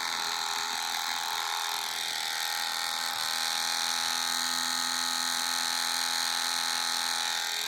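Small electric Dspiae paint stirrer running steadily with a bottle of thinned liquid on it, a constant whirring hum.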